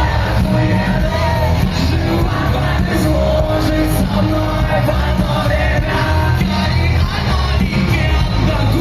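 Live rock concert heard from the audience in a large hall: the band playing loud with a heavy bass line and a singer's vocals, with shouts from the crowd.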